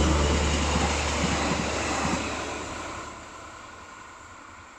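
Pinzgauer Lokalbahn narrow-gauge train, hauled by a diesel locomotive, going past close by and running off down the line. A deep rumble with wheel and rail noise fades steadily and drops away about three seconds in.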